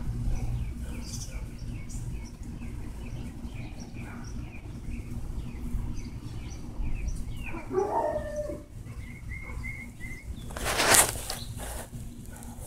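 Birds chirping repeatedly in the background, with a longer sliding call about eight seconds in and a short run of even notes just after it. Near the end comes one brief, loud rustle.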